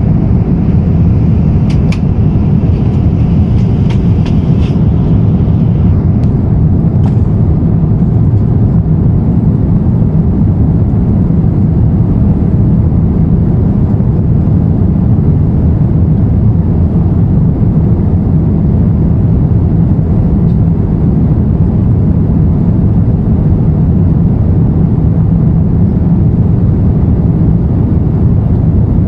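Steady low rumble inside an Airbus A350-900 cabin in flight: engine and airflow noise, with a few faint clicks in the first several seconds.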